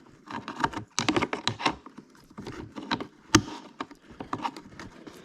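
Irregular clicks, taps and light clatter of tools and parts being handled while a dirt bike is taken apart, with one sharper knock about three and a half seconds in.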